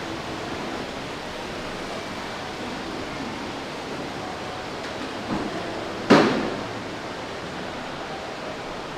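Steady background noise of an indoor shopping mall, with a softer knock a little after five seconds in and then one loud, sharp bang that rings off briefly.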